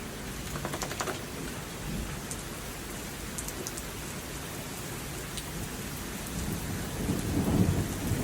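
Steady heavy rain with big drops, a few sharp drop ticks about a second in. Near the end a low rumble of thunder begins to build.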